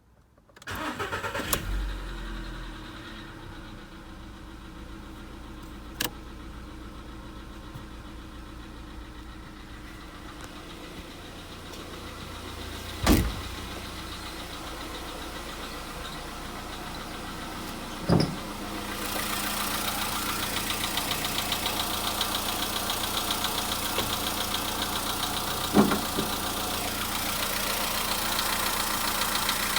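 Volkswagen Polo Sedan engine starting from cold and then idling, with a fast, even knocking from the engine that shows while it is cold. A few loud thumps stand out along the way, and from about twenty seconds in the running sound and its knocking are louder.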